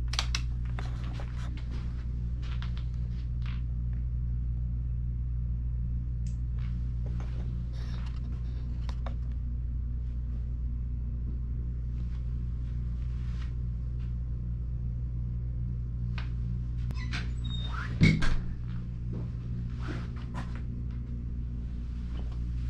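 Honda CRF450RL's 450cc single-cylinder four-stroke engine idling steadily in a small garage, a low even rumble. Scattered light clicks and handling knocks from the switchgear and bike, with one louder knock about 18 seconds in.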